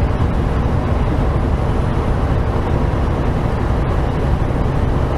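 Steady low engine drone and road noise inside the cab of a semi truck on the move.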